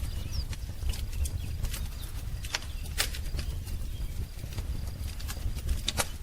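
Wood fire crackling, with irregular sharp pops and snaps over a low rumble. A single faint bird chirp comes through near the start.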